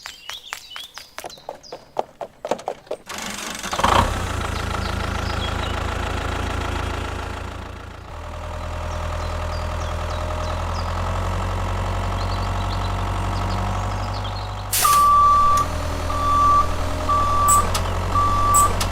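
A few light taps, then a small electric motor starts and runs steadily with a low hum, dipping briefly midway. Near the end a high electronic beep sounds four times at an even pace, like a toy vehicle's reversing beeper, over louder rattling.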